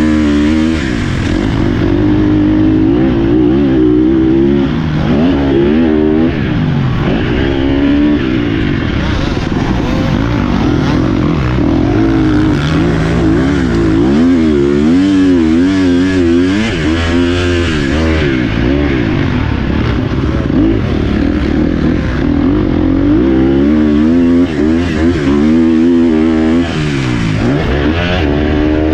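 Dirt bike engine being ridden on an off-road trail, its pitch rising and falling over and over as the rider works the throttle and gears.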